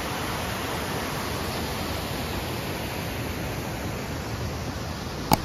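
Rushing water of a rocky stream cascading over small falls, a steady hiss, with one sharp click near the end.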